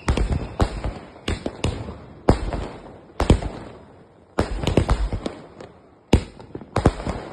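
Fireworks going off: sharp bangs in irregular clusters, several within each second, each with a short crackling tail.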